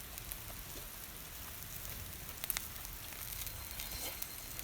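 Pork sizzling over a charcoal grill, a steady hiss with a few sharp crackles about two and a half seconds in as the fat drips onto the coals.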